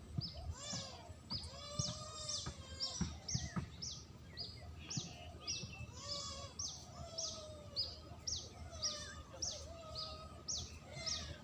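Spotted dove cooing in low, arching notes, mixed with a small bird's sharp, falling high chirps repeated about twice a second.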